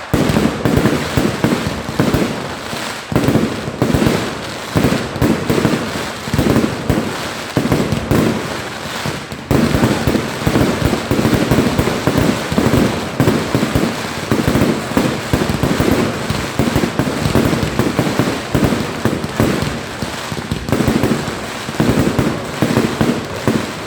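Fireworks display going off in a dense, continuous barrage of rapid bangs and crackles, with a brief lull about nine and a half seconds in.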